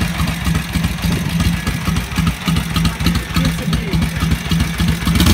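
1942 Harley-Davidson WLA's 45 cubic-inch flathead V-twin engine running at a steady idle, with uneven firing pulses.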